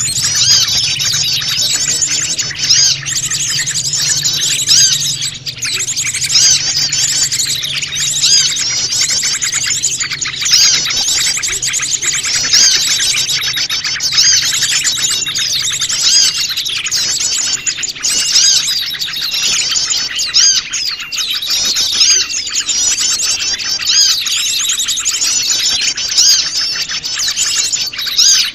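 Many small wild birds chirping and twittering at once in a dense, unbroken chorus, with louder calls standing out every couple of seconds: a lure recording meant to draw small birds in.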